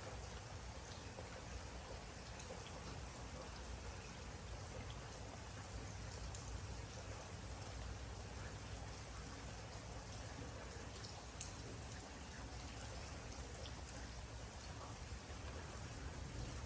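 Steady rain falling: an even hiss with scattered individual drops tapping.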